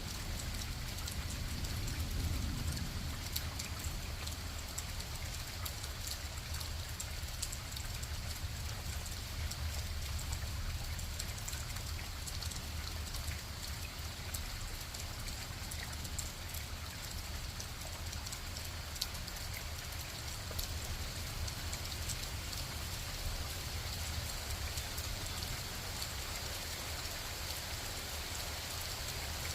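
Steady rain falling, with many small sharp ticks of single drops striking close by, over a constant low rumble.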